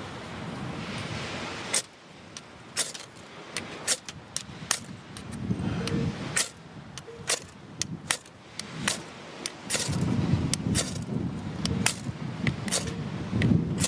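Irregular sharp clicks and knocks, a few much louder than the rest, over a low rumbling noise that eases about two seconds in and swells again near the end.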